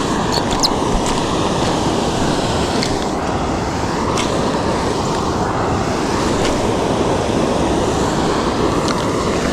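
Steady loud rush of a waterfall's falling water, with a few faint clicks and taps over it.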